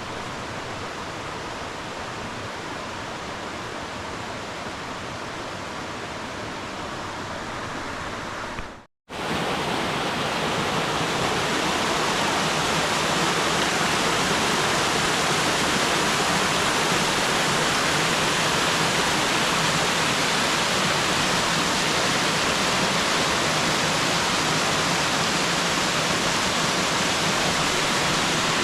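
Rushing water of a mountain gorge stream and its cascades: a steady roar of water. About nine seconds in, it cuts out for an instant, then returns somewhat louder.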